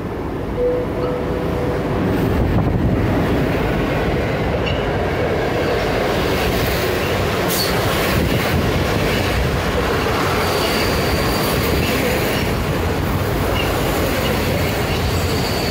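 A passenger train running through a railway station, its rumble growing louder about two seconds in and then holding steady. A thin, high, steady wheel squeal joins about two-thirds of the way through.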